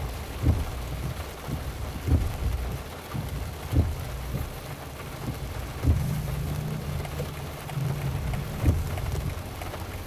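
Heavy rain falling on and around a moving car, a steady hiss with a low thump every two seconds or so.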